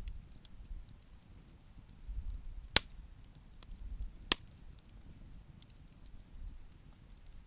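Wood campfire crackling with faint scattered ticks, and two loud sharp pops about a second and a half apart in the middle.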